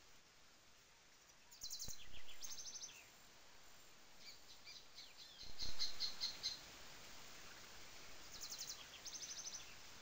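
A songbird singing three short phrases of rapid, evenly spaced high notes, over a faint steady hiss of trickling water from a small waterfall. Two brief low thumps come during the first and second phrases.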